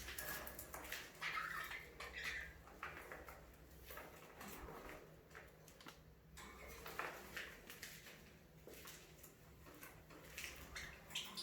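Budgerigars chirping and chattering faintly, in short scattered chirps with small clicks, over a steady low hum.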